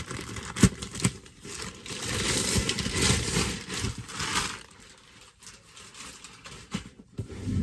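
Packaging being opened by hand, crinkling and tearing. The rustling is loudest from about two to four and a half seconds in, with a couple of sharp knocks in the first second.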